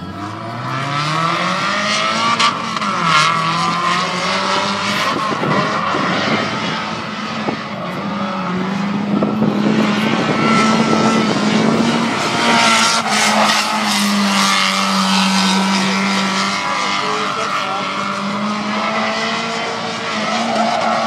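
Mazda Miata's four-cylinder engine revving hard as the car drifts, its pitch climbing in the first couple of seconds and then rising and falling with the throttle. Tyres squeal through the slides.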